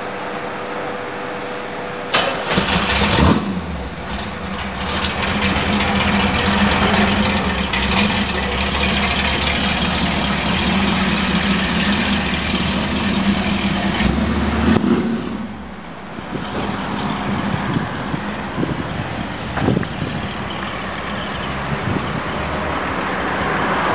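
A 481 hp modified V8 in a second-generation Chevrolet Camaro with custom exhaust starts with a sudden loud burst about two seconds in and settles into a steady idle. It gives a short rev near the 20-second mark and grows louder near the end as the car pulls away.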